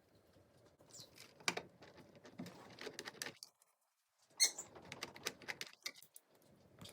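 Small plastic clicks and rattles of Lego pieces being handled and fitted together, with a sharper click just after the middle.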